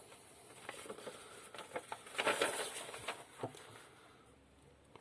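Light handling noise: scattered small clicks and rustles, with a louder scraping stretch about two seconds in.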